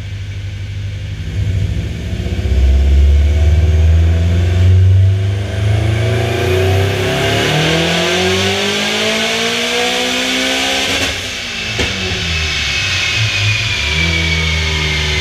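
2006 Subaru Impreza WRX STI's turbocharged 2.5-litre flat-four on a chassis dyno, making a full-throttle pull. It starts with a low uneven rumble, revs up steadily in a rising wail for several seconds, then cuts off sharply about eleven seconds in with a couple of sharp pops. A high whistle falls away as the revs drop back to a steady rumble.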